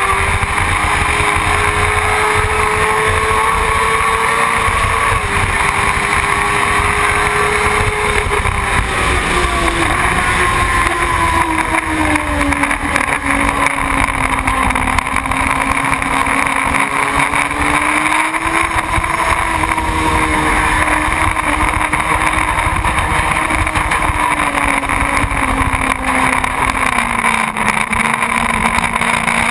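Motorcycle engine running steadily under a rush of wind noise. Its pitch falls about eight seconds in, rises a little around the middle, and drops again near the end, as the revs ease off.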